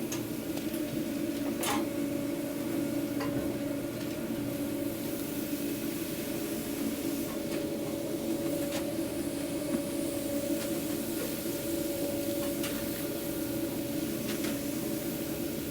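Steady mechanical hum of food-truck kitchen equipment, with a few light clicks and taps from takeout orders being packed.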